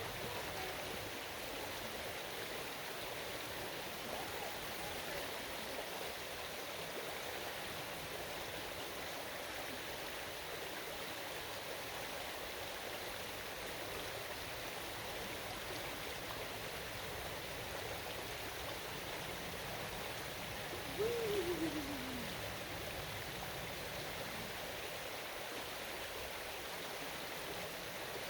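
Creek water running steadily over rocks, an even rushing. About three-quarters of the way through, a short call falling in pitch rises briefly above it.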